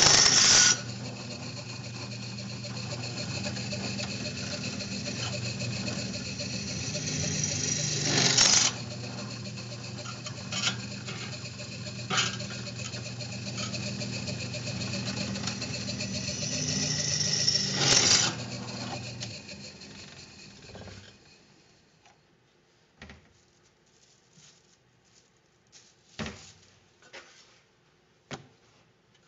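Electric drill running while drilling drain holes in the sheet-metal rear floor support, with three sharp louder moments about nine seconds apart as the bit bites through. The drill winds down about two-thirds of the way in, followed by a few light clicks and knocks of handling.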